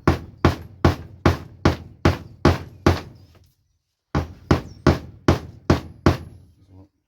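Hammer striking an eyelet-setting tool to clinch a metal eyelet through leather: a run of eight evenly spaced blows, about two and a half a second, a pause of about a second, then six more.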